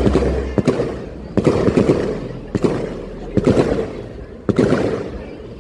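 Fireworks exploding in quick succession: a sharp bang about every second, each dying away before the next.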